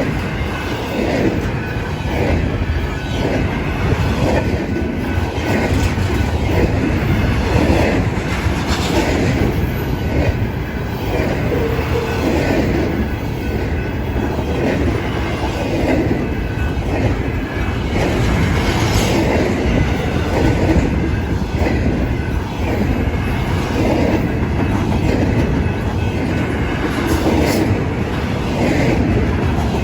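Freight cars of an intermodal train rolling past, their wheels clacking over rail joints in a repeating rhythm over a steady rolling noise.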